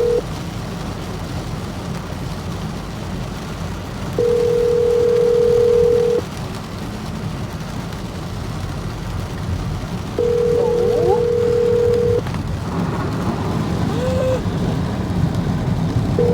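Telephone ringback tone heard through a phone's speaker: a steady tone about two seconds long, repeating every six seconds while the called phone rings. Under it is the steady low rumble of the car driving.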